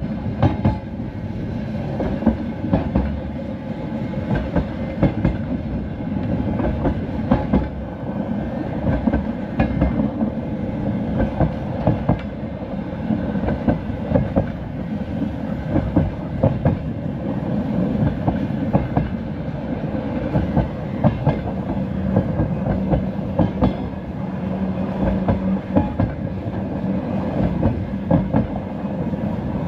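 Passenger train carriage running along the track, heard from inside the car: a steady rumble with repeated clicks of the wheels over rail joints.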